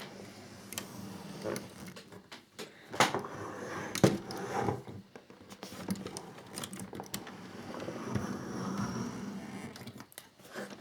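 Scattered small clicks and knocks of plastic model parts and a screwdriver being handled on a tabletop, the loudest knock about four seconds in, with softer rustling of handling later on.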